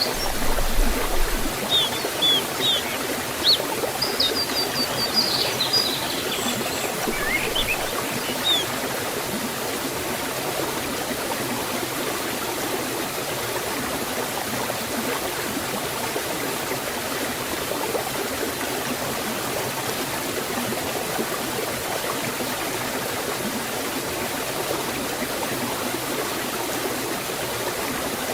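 Water of a forest waterfall and stream running steadily, with a few short bird chirps in the first several seconds.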